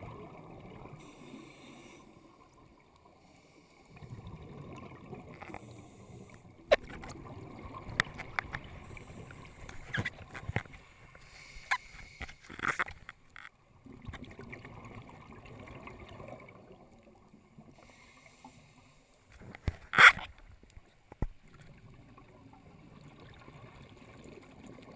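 Scuba diver breathing through a regulator underwater: bubbly exhalations alternate with short hissing inhalations every few seconds, with scattered clicks and knocks, the loudest a sharp knock about twenty seconds in.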